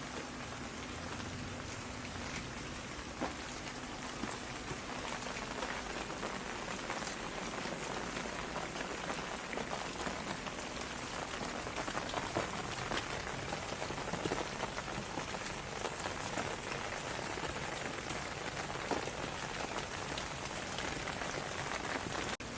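Steady rain falling on a surface, with many individual drops ticking close by. The sound drops out for an instant near the end.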